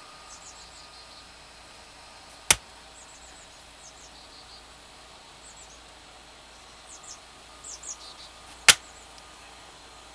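Two sharp axe strikes about six seconds apart on a short, dried, knotty oak log being split for firewood. High, short chirps sound faintly in the background.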